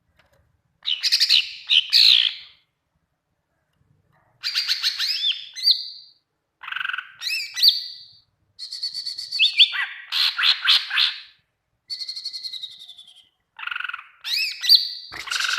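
Cucak ijo (green leafbird) singing a loud, varied song: about six bursts of rapid chirps, trills and sweeping whistles, each one to three seconds long, with short pauses between them.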